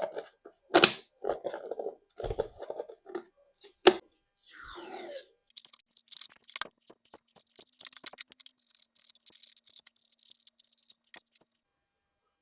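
Kitchen handling sounds of containers and utensils: a run of knocks and clicks, a short scrape about four and a half seconds in, then lighter clicking and rustling that stops near the end.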